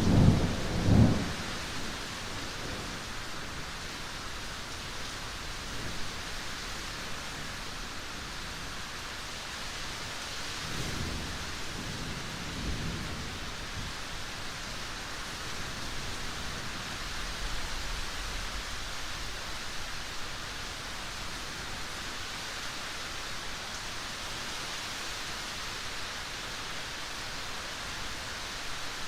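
Steady rain hissing throughout, with a rumble of thunder fading out in the first couple of seconds and fainter distant rumbles near the middle.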